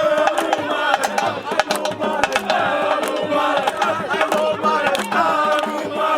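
Music at a festival: many voices singing or chanting together, with frequent sharp percussive strikes and crowd noise.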